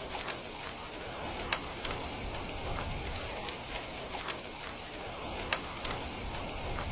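Steady rain falling, with scattered sharp clicks of drops or crackles every second or so.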